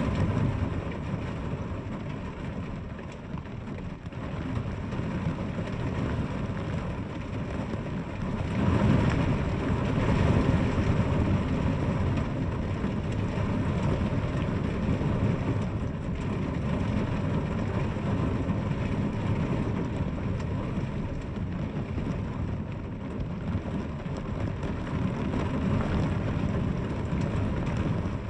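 Steady rain falling, with a deep low rumble underneath that swells about eight seconds in and eases off again.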